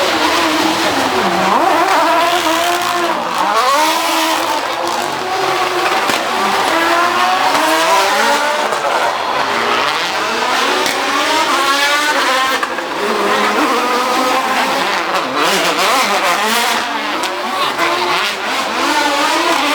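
Historic rally cars driven hard and sideways past the spectators: engines revving high and dropping with each gear change and lift, over and over, with some tyre squeal.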